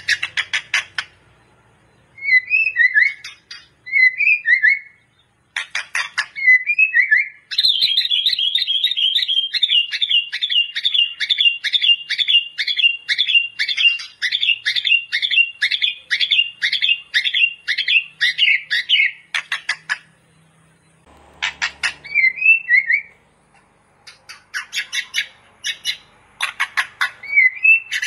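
White-rumped shama singing loudly in phrases broken by short pauses, mixing whistled notes with harsh rasping ones, with a long run of rapidly repeated notes in the middle.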